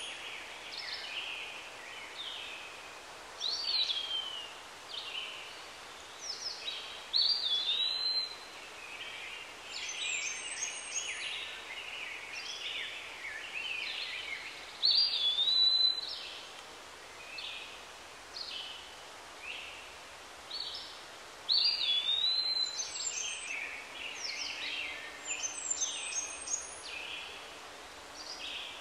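Birds calling and singing: many short chirps, and a phrase ending in a swooping whistle that comes back every few seconds.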